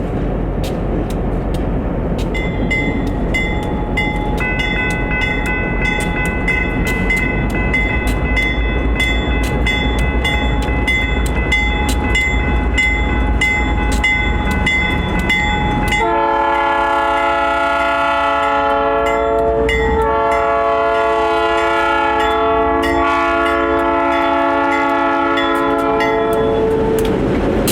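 A diesel freight train rolls by with engine rumble and steady clicking of wheels over the rail joints, plus a thin high whine. About halfway through the locomotive horn sounds two long blasts, the second one longer.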